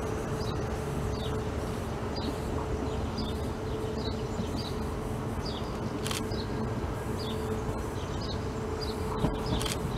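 A standing passenger railcar running with a steady hum, over short high chirps repeated about every half second, like a small bird. Low rumble starts to build near the end as a second train approaches.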